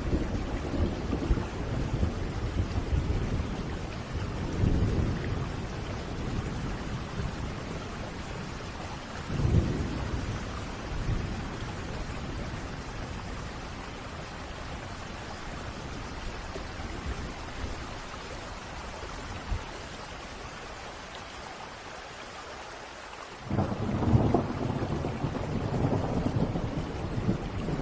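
Steady rain under a thunderstorm, with low rolling rumbles of thunder in the first few seconds and a louder peal about ten seconds in. After a quieter spell of rain alone, a loud rumble of thunder sets in suddenly near the end.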